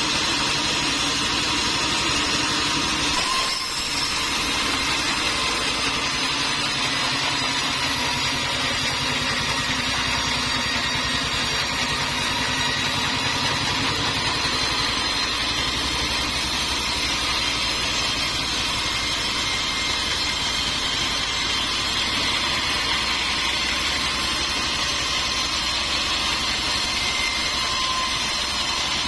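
Sawmill machinery running steadily, a continuous mechanical noise with a steady high whine, dipping briefly a few seconds in.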